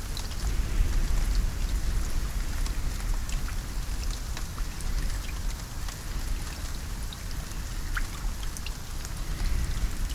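Steady rainfall with many individual drops ticking sharply over a continuous hiss, above a deep, steady low rumble.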